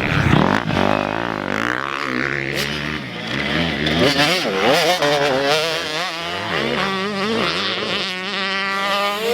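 Motocross dirt bike engines revving, their pitch rising and falling repeatedly as the riders accelerate, shift and back off. Near the end one bike holds a steadily rising note as it accelerates.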